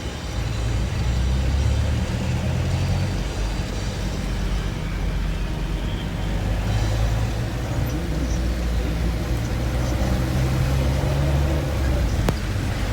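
Car on the road: a steady low engine and tyre rumble with an even hiss over it, and a single sharp click near the end.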